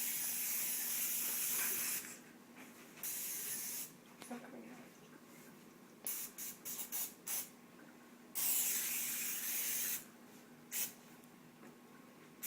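Aerosol cooking spray hissing onto a cake pan to grease it, in separate bursts: a long spray, a shorter one, a quick run of short squirts, another long spray and a last short squirt.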